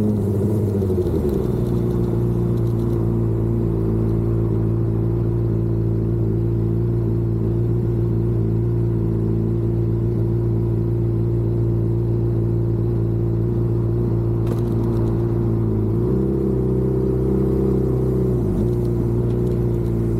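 Vehicle engine running at a steady cruise on the highway. The pitch finishes climbing about a second in, holds level, then shifts a few times near the end as the throttle changes.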